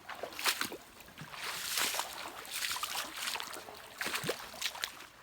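Shallow water splashing and trickling in irregular, uneven splashes.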